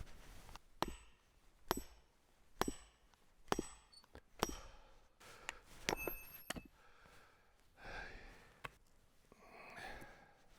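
A steel froe being hammered into the edge of a large, dry cedar round to start a split: sharp knocks about once a second, five in a row, then a quick cluster of strikes with a brief metallic ring. Heavy breathing and sighs from the effort follow near the end.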